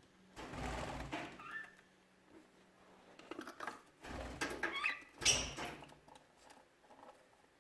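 Budgerigars chirping amid bursts of rustling and dull knocks, in three main bursts: about half a second in, around four seconds, and just after five seconds.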